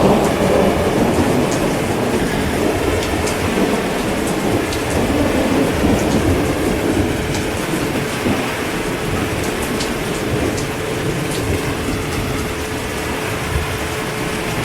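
Heavy rain falling steadily, with the low rolling rumble of distant thunder underneath.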